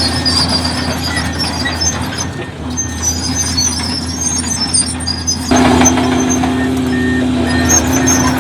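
Heavy diesel earthmoving machinery running with a steady engine drone, which steps up suddenly and stays louder about five and a half seconds in.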